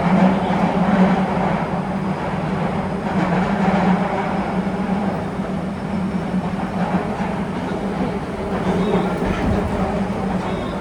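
Nagoya Municipal Subway 2000 series train running between stations, heard from inside the car: a steady rolling rumble of wheels on rail with a steady low hum.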